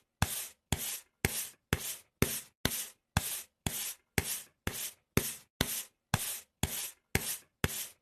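Rhythmic rubbing strokes, about two a second, each a short scratchy stroke with a sharp start and silence between.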